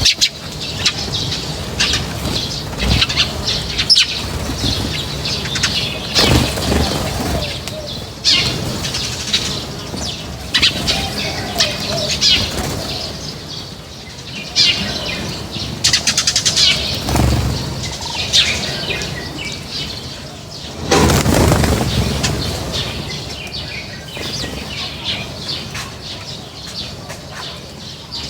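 A flock of small birds chirping and twittering constantly while feeding, with repeated bursts of wing flapping as birds take off and land. The longest flutter comes about three-quarters of the way through.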